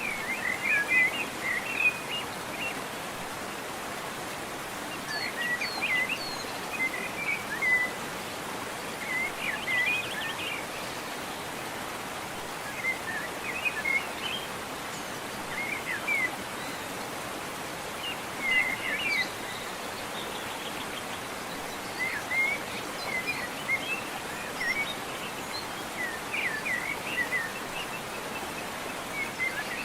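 Steady rush of running water, with a songbird singing short chirping phrases every few seconds over it.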